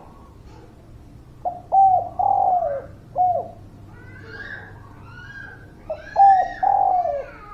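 Spotted dove (derkuku) cooing in two phrases of about four short notes each, about a second and a half in and again near the end, with fainter higher bird chirps between them.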